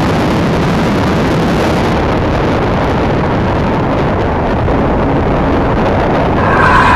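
KTM RC 390 single-cylinder engine running at speed, buried in loud, steady wind rush. A higher tone comes in near the end.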